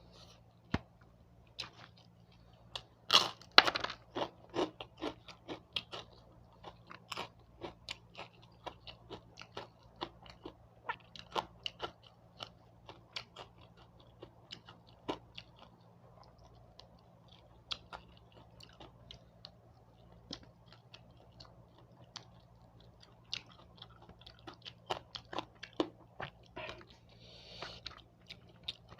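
Close-up eating sounds: a person chewing with many crisp crunches of crunchy food such as rempeyek or fried fish, the loudest run of crunches about three seconds in.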